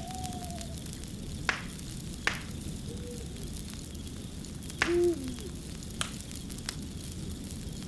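Wood fire crackling, with a handful of sharp pops over a steady low rumble. A few short, low hoots sound with it, one near the start, one mid-way and a louder one about five seconds in.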